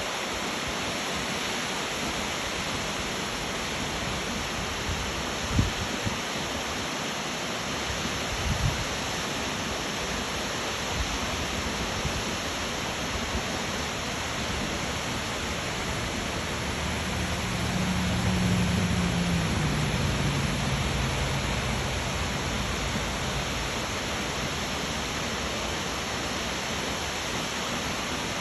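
Waterfall rushing as a steady, even roar of falling water. A couple of brief low knocks come early on, and a low hum swells and drops in pitch for a few seconds past the middle.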